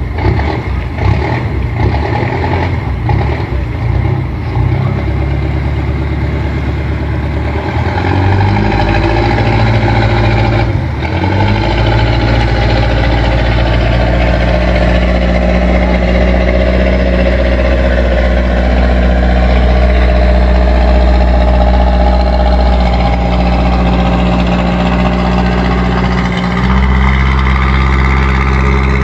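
Boat's PS100 diesel engine running, uneven and choppy for about the first eight seconds, then settling into a steady run. It dips briefly about eleven seconds in and shifts slightly in pitch near the end.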